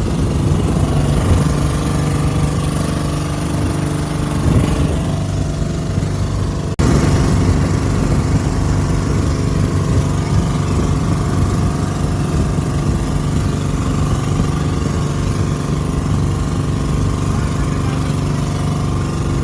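Boat engine running steadily and loudly, with a sudden cut about seven seconds in after which it carries on unchanged.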